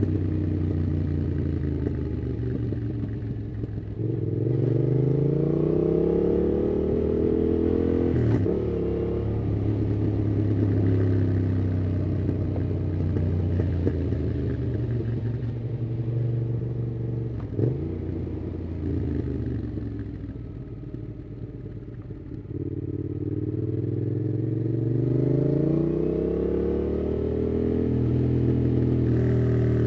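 2018 Yamaha MT-07's parallel-twin engine through a MIIV aftermarket exhaust with its dB killer in, riding. The pitch rises several times as it pulls through the revs, with two short sharp clicks along the way. A little past the middle it eases off to a lower, quieter note, then pulls up again.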